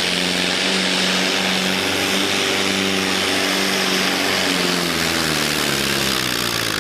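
Pulling tractor's engine running loud and steady under load, a deep even drone under a strong hiss, its pitch easing down slightly near the end.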